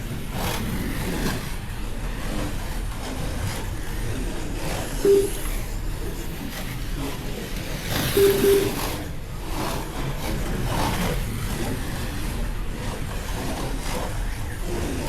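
Electric slot cars racing around a plastic track, a steady whirring of small motors and wheels on the track. A short beep comes about five seconds in and a longer one at about eight seconds.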